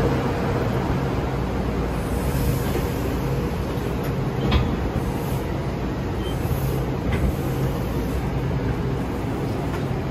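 Stainless-steel electric commuter train cars rolling slowly past close by, giving a steady rumble and a low hum. Two sharp clicks come about four and a half and seven seconds in.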